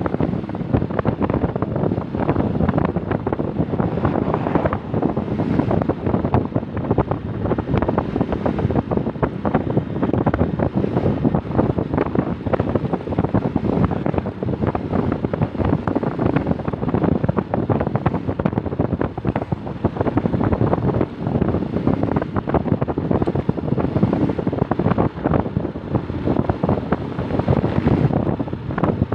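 Wind buffeting the microphone on a moving motorcycle: a steady, rough rush of noise.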